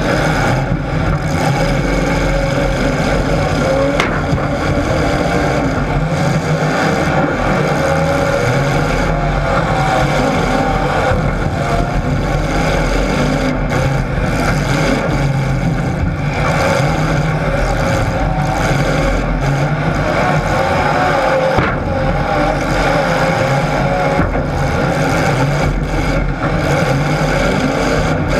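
Motor vehicle engines running and revving continuously, their pitch wavering up and down.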